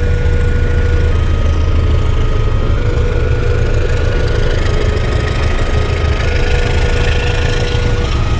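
Indonesian passenger train's carriages rolling past over a level crossing: a steady low rumble, with thin high tones that step between pitches every second or two.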